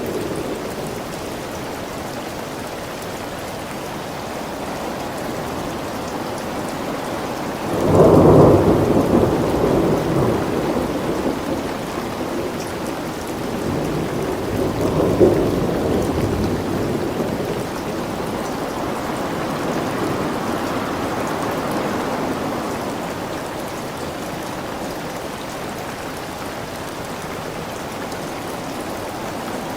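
Steady rain falling, with a sudden loud rumble of thunder about a third of the way in that rolls away over several seconds and a second, smaller rumble a few seconds later.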